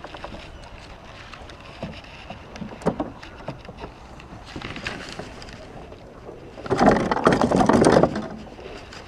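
Splashing and scuffling as a hooked largemouth bass is landed, with a loud, dense burst of thrashing about seven seconds in that lasts over a second.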